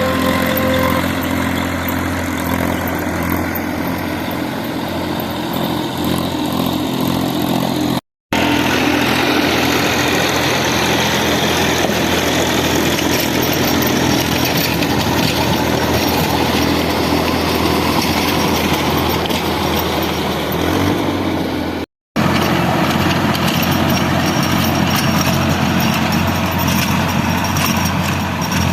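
Tractor engine running steadily under working load, with the sound cutting out completely twice for a moment.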